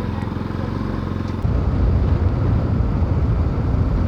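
Motorcycle engine running as the bike rides along, a steady low hum at first. About a second and a half in, a louder, rougher low rumble sets in and stays.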